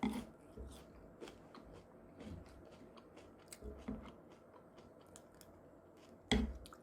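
Quiet eating sounds: scattered light clicks and taps of utensils and chewing, with one louder knock near the end.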